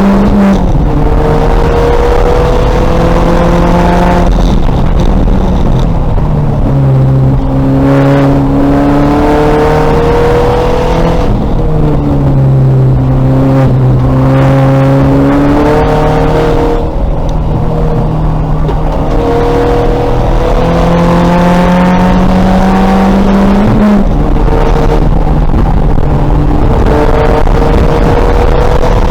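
2000 VW Golf race car's engine under hard running, its pitch climbing under acceleration and dropping sharply at each gear change, several times over.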